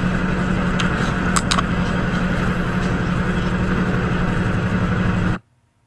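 Steady vehicle engine and road noise with a low hum, as heard on a dashcam recording, with two sharp clicks about a second and a half in. It cuts off suddenly near the end.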